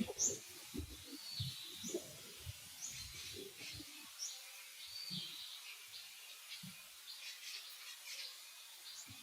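Birds chirping: short, high, downward-sweeping calls repeated every second or so. Soft low knocks and rustling run through the first four seconds.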